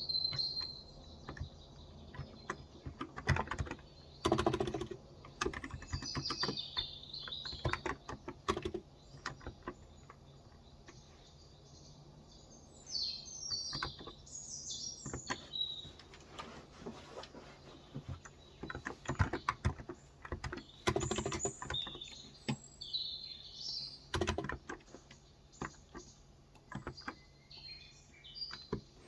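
Typing on a Cox Endeavour tenkeyless electrostatic capacitive keyboard with 35 g switches: irregular bursts of keystrokes with short pauses. Birds chirp in the background now and then.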